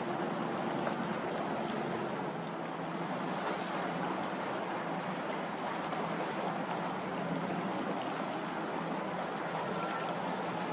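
Steady rushing noise of wind and water with a low, steady engine hum from a ship moving through the harbour.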